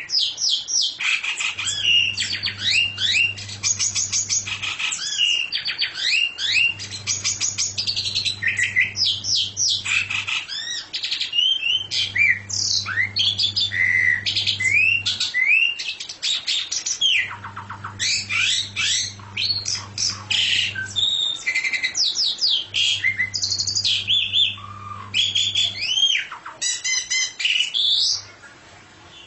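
A songbird singing a long, fast, varied song of chirps, swooping whistles and rapid trills with hardly a pause, stopping about a second before the end. Under it a low hum comes and goes in stretches of a few seconds.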